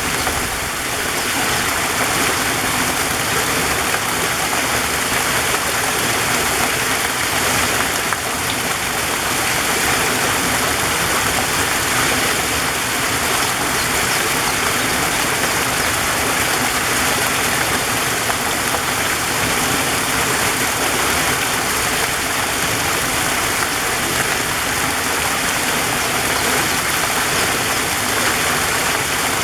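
Waterfall: water rushing and splashing in a steady, unbroken roar.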